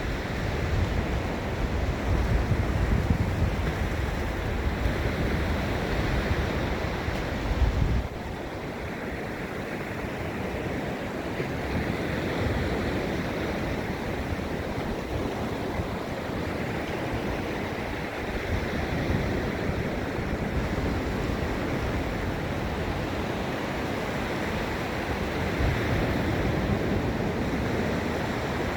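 Gulf of Mexico surf washing steadily onto a sandy beach, swelling and easing as waves break. For about the first eight seconds a low wind rumble on the microphone sits under it, cutting off abruptly.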